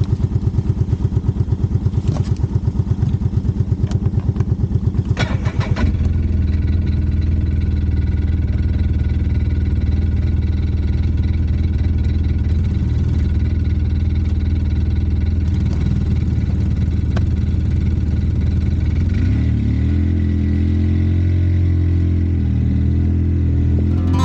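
Off-road vehicle engine, pulsing evenly at first, then running steadily and fuller from about six seconds in, with its pitch shifting up and down near the end.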